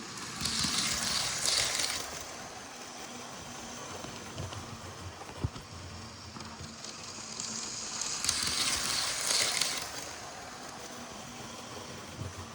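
Model train running on the layout, its wheels on the track making a steady running noise. The hiss swells louder twice, each for about a second and a half, about half a second in and again about eight seconds in, as it passes close.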